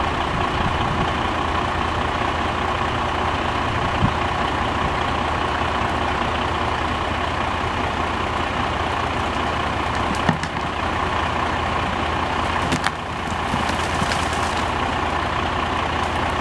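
A heavy engine running steadily under load while a stuck truck is pulled free, with a few short knocks about 4, 10 and 13 seconds in.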